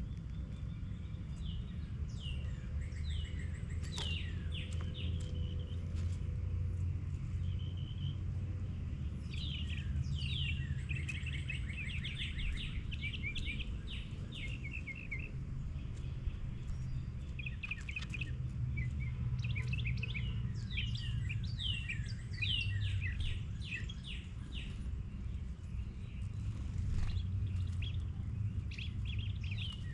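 Several small songbirds chirping and singing in quick repeated chirp series, over a steady low rumble.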